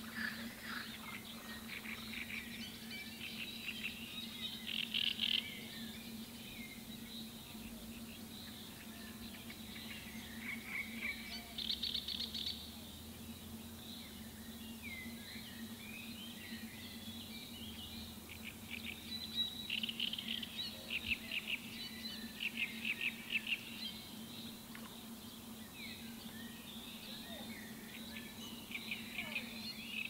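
Small birds singing in bursts of rapid, chattering notes, several calling at once, over a steady low hum.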